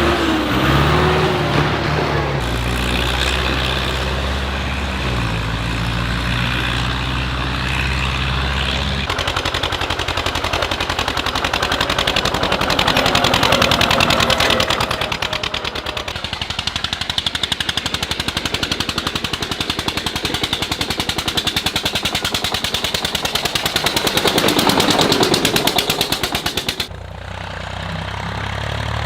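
Tractor engines running: first a steady low engine drone, then from about nine seconds a rapid, even exhaust popping that cuts off abruptly near the end, where another engine takes over.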